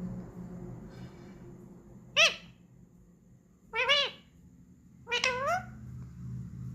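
Pet parrot making three short, high-pitched calls; the last comes in two syllables, like its mimicked "mummy".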